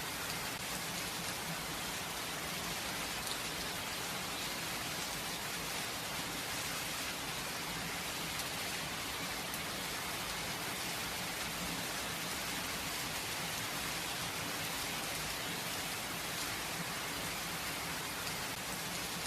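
Steady, gentle rain falling, a constant hiss of drops with no thunder.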